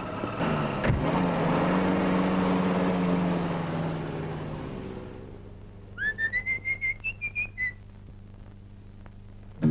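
Car engine running, with a single knock about a second in, fading away over the first few seconds. Then a quick run of about ten short whistled notes, rising in pitch.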